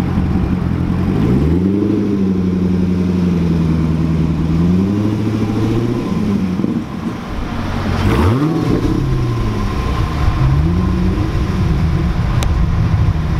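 Chevrolet C6 Corvette ZR1's supercharged 6.2-litre LS9 V8 at low speed in a parking manoeuvre. The revs rise a little about a second in, settle, then drop back, with a quick dip and blip of throttle around the middle and a smaller rise later as it pulls into the space.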